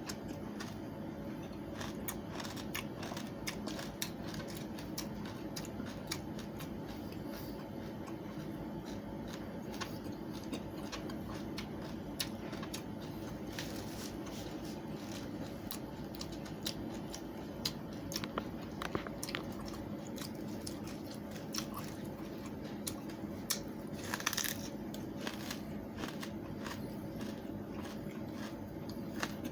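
Watermelon rind being bitten and chewed: irregular crisp crunches, a little louder about 24 seconds in, over a steady low hum.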